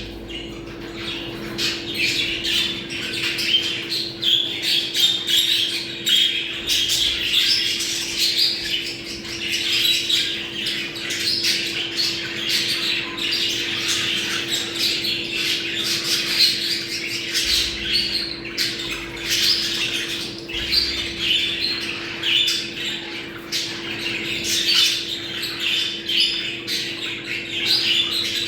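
Budgerigars chattering and warbling without a break, with sharp squawks mixed in: the busy flock chatter of budgies in breeding condition. A steady low hum runs underneath.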